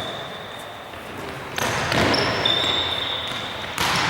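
Tchoukball play on an indoor court: the ball bouncing, players moving, and high squeaking tones like shoes on the hall floor. The hall noise jumps up sharply about a second and a half in, and again near the end.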